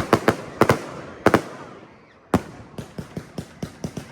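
Fireworks going off at a display: a run of sharp bangs and crackles. About two seconds in there is a brief lull, then one loud bang sets off a dense run of smaller cracks.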